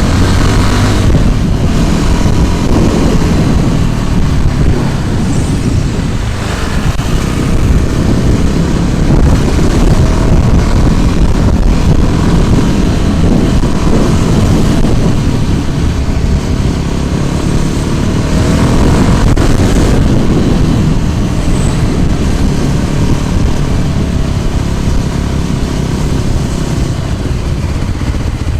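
Road traffic noise with a heavy low rumble, with motor vehicles passing and their pitch sliding as they go by.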